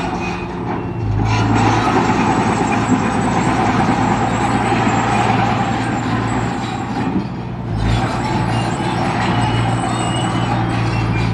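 Heavy diesel construction machine working, its engine running loud and steady with mechanical noise over a low hum, easing briefly twice.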